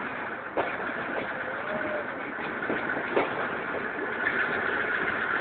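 Passenger train running slowly, heard from a window of one of its own coaches: a steady rumble of wheels and coaches with a few sharp clacks.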